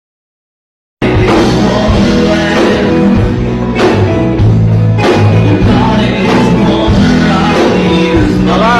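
After a second of dead silence, a Nepali pop-rock song cuts in abruptly at full volume, with drums, bass, guitar and singing.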